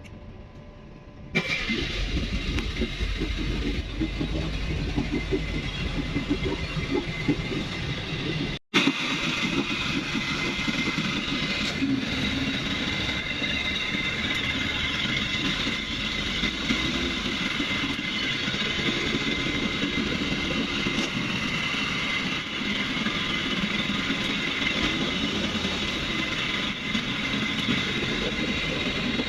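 Rescue boat engine starting about a second in, then running steadily during a test run, with one momentary break.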